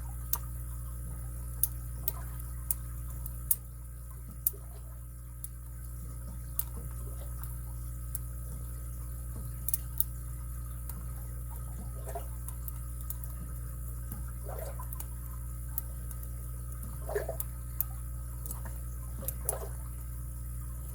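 Lock pick working the pins of a padlock under tension: scattered, irregular sharp clicks and taps over a steady low hum.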